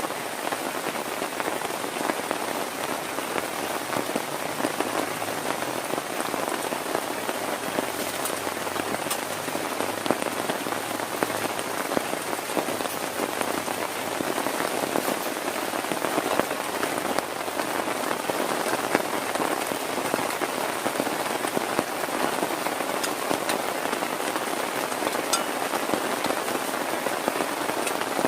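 Heavy rain drumming steadily on a tent, a dense patter of countless drops.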